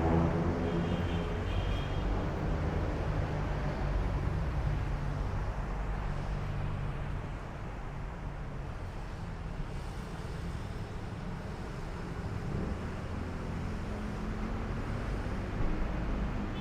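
Steady low vehicle engine hum with traffic noise around it.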